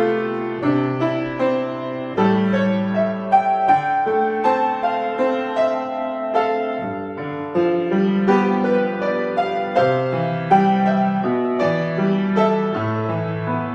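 Solo piano playing a piece in a gentle tempo, with a melody over held bass chords and notes struck every fraction of a second.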